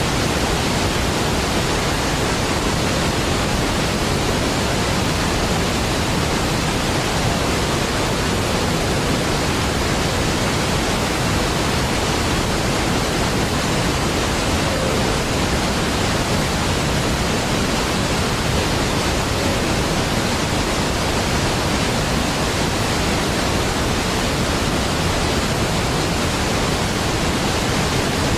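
Large waterfall: a deep, steady rush of falling water with no change or breaks.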